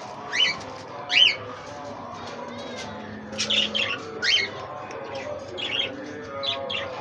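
Budgerigars chirping: short, sharp calls coming in bunches every second or so, over a low steady background chatter.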